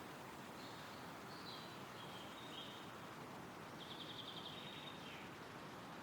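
Wind rustling steadily through trees, with faint birdsong: a few short high phrases, and a rapid trill about four seconds in.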